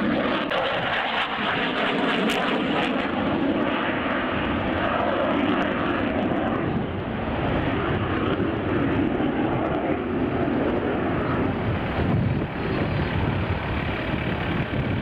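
Aircraft engine noise from an aircraft in flight, a loud steady rush with faint tones gliding slowly through it.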